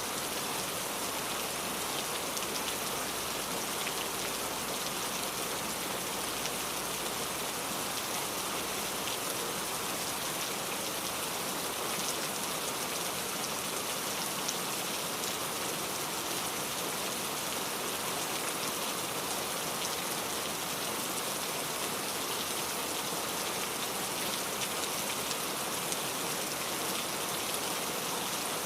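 Steady, even rain falling, with individual drops pattering on a surface.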